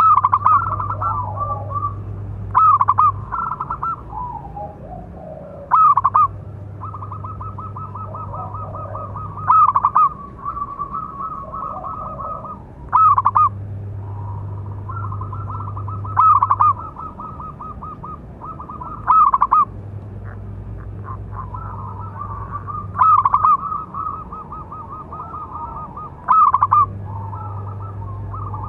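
Zebra dove (perkutut) cooing: a loud call about every three seconds, each followed by a run of rapid staccato coos. A faint low hum comes and goes underneath.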